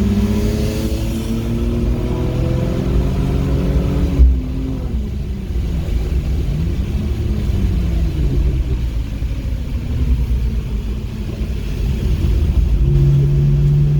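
Car engine heard from inside the cabin, revs climbing for about four seconds, then a brief thump as the pitch drops; the revs rise and fall after that and settle into a steady tone near the end.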